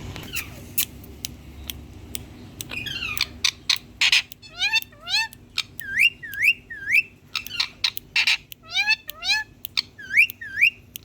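Indian ringneck parakeet calling: a few sharp clicks at first, then a quick run of chirps and squawks with short rising whistles, repeated over and over.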